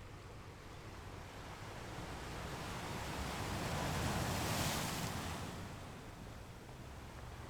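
Ocean surf: a wave builds, breaks with a rising hiss about four seconds in, and washes back, over a steady low rumble of the sea.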